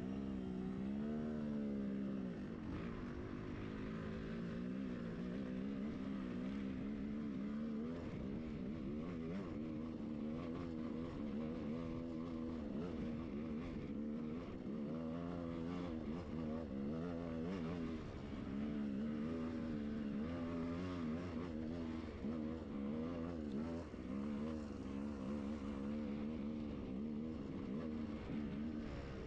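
Enduro motorcycle engine running while riding off-road, its revs rising and falling constantly as the throttle is worked.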